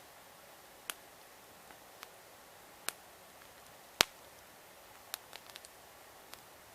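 Wood campfire crackling: sharp irregular pops over a faint steady hiss, the loudest about four seconds in, followed by a quick cluster of small pops a little after five seconds.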